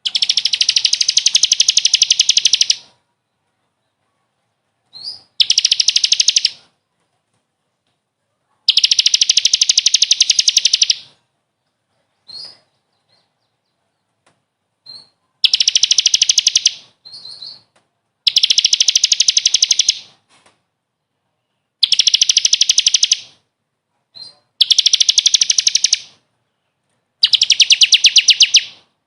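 Recorded songbird song of the kind played as a masteran to train caged songbirds: a rapid, high trill repeated in about eight bursts of one to three seconds each, with short single notes between some bursts and dead silence between the phrases.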